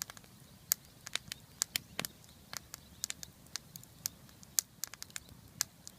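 Wood fire crackling: a piece of wood cut with slits burning, giving irregular sharp pops and snaps, several a second.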